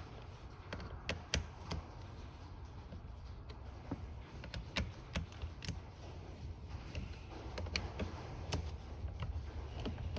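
Scattered, irregular metal clicks and ticks of a screwdriver working on a carburetor's screws and parts, over a low steady hum.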